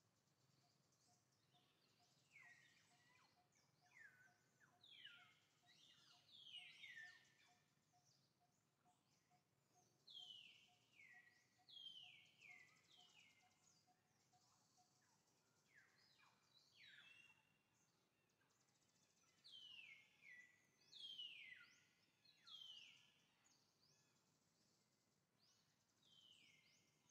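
Faint birdsong: short whistled notes that slide downward in pitch, several in quick succession, coming in bouts every few seconds.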